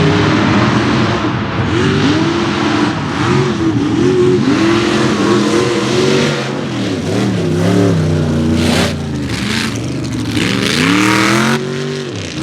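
Mega mud truck's big engine revving hard, its pitch climbing and dropping again and again as the driver works the throttle, over a loud, dense rush of noise.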